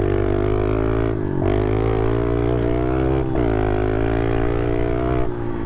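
Pit bike's single-cylinder engine running hard under throttle, its pitch holding fairly steady with two brief dips, about a second and three seconds in, before it drops back near the end.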